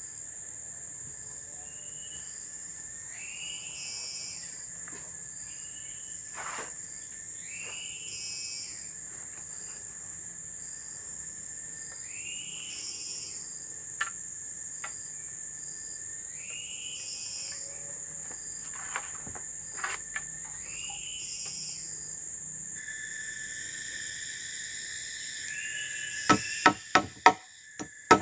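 Tropical forest insects shrilling steadily, one high and one lower continuous tone, with a short call repeating about every four to five seconds. Near the end a quick run of sharp knocks cuts in, louder than everything else.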